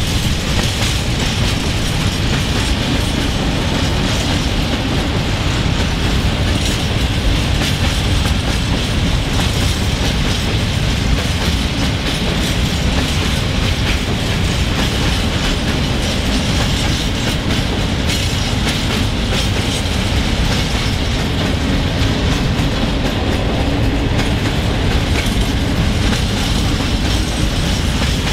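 A long freight train of open-top gondola wagons rolling past at a steady speed: a continuous rumble of wheels on rail, with many sharp clicks from the wheelsets.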